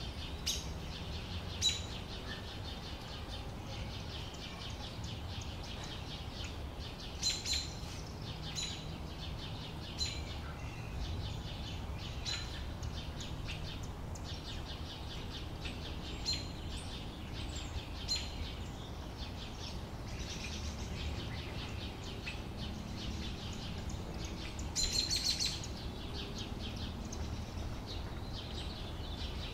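Small birds chirping in short, high calls every second or two, with a quick run of calls about 25 seconds in, over a steady low background rumble.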